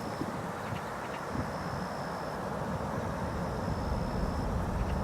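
Steady low rumble of a Boeing 747-400's jet engines after landing, with a faint high thin tone coming and going above it.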